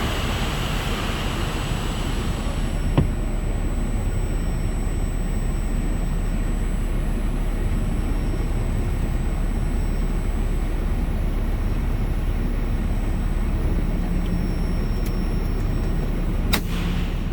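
Semi-truck diesel engine idling with a steady low rumble. There is a sharp click about three seconds in and another sharp knock near the end.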